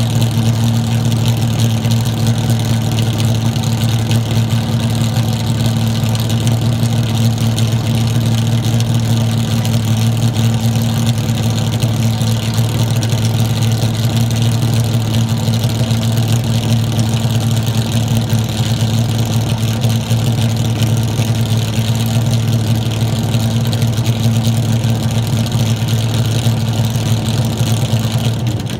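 Vintage race car engine idling steadily during warm-up, heard close to its side-exit twin exhaust pipes.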